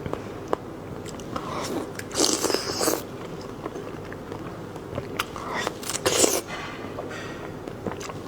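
A person eating: biting and chewing with small wet clicks, and two longer noisy mouth sounds, about two seconds in and again about six seconds in.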